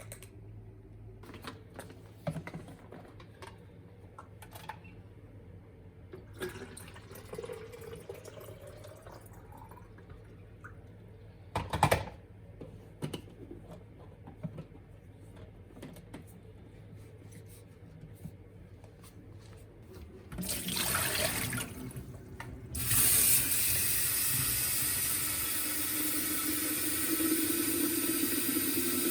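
Scattered small clicks and knocks of things being handled, with one louder knock near the middle; then, after a brief first gush, a water tap runs steadily to the end, the water pitch rising slightly near the end as if a vessel is filling.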